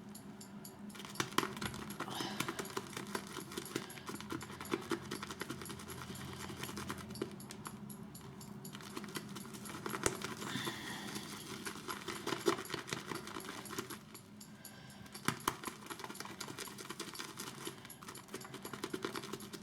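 Shaving brush whipped round a bowl of shaving soap, building lather: steady wet swishing with many small ticks and clicks of the brush against the bowl. The lather is still thick and pasty.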